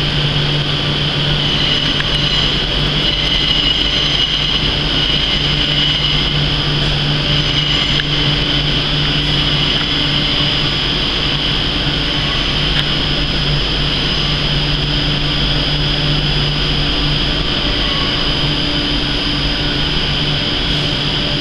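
Steady electrical drone and high whine of a Class 90-propelled Mk3 train standing at an enclosed platform, pitch and level unchanging. There is no rising traction whine of the locomotive pulling away.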